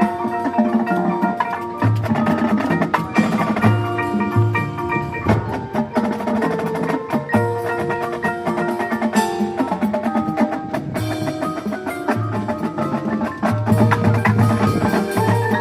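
High school marching band playing, with pitched mallet percussion and wood block to the fore over repeated low notes.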